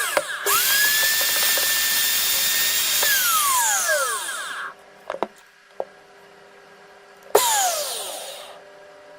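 Freshly restored Makita 6016 corded electric drill test-run in short bursts. The motor whines at full speed and winds down in a falling whine each time the trigger is let go, twice spinning back up. There are a few clicks between runs.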